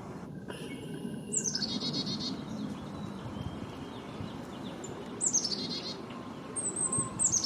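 A small songbird singing three short phrases, each a fast trill that slides down in pitch, about four seconds apart and again near the end, with a brief run of high notes before the last.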